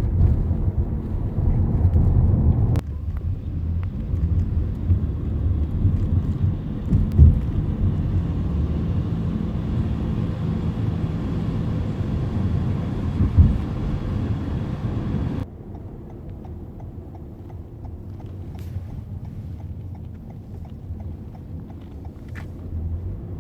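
Steady low rumble of a moving vehicle or aircraft cabin, cut into several clips, the last one quieter, with a couple of short thumps in the middle.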